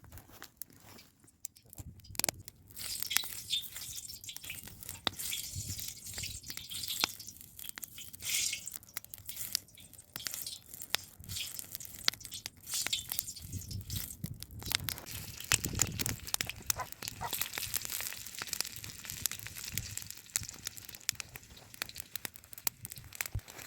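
Campfire crackling and popping with an underlying hiss, as a new steel saj griddle is fired over it to burn it in before first use.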